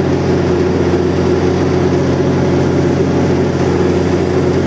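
MP40PH diesel locomotive idling while the train stands in the station: a steady, loud low hum with several held tones.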